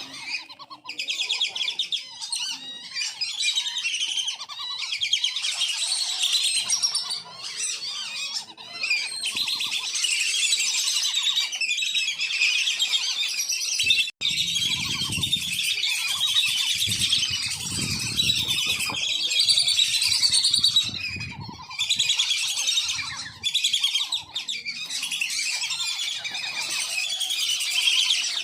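Wandering whistling ducks (belibis kembang) calling continuously: many high-pitched whistles overlapping in a steady chatter, the kind of call used as a lure for wild whistling ducks.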